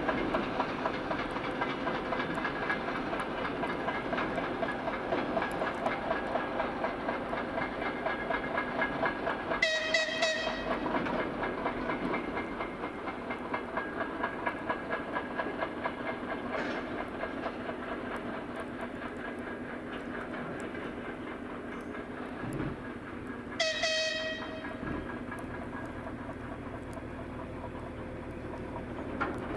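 TEM2UMT shunting diesel locomotive running with a covered wagon: a steady diesel engine drone with rhythmic wheel clicks over the rails, and two short whistle blasts, about ten seconds in and again about fourteen seconds later. The sound eases off after the first blast.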